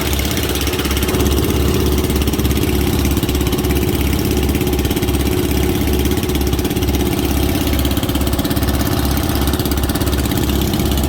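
Boat engine running steadily with an even, rapid low beat.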